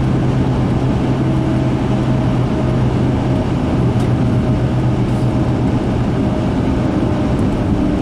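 Engine and road noise inside a moving pickup truck's cab: a steady rumble with a constant low hum.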